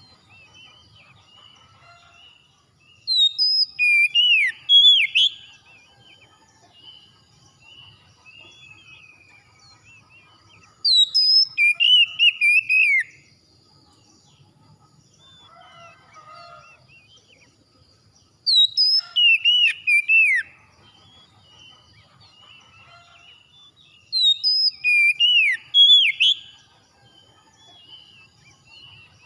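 Oriental magpie-robin singing: four loud bursts of rich, sweeping whistled phrases, each about two seconds long and coming every six to eight seconds, with faint chirps in between.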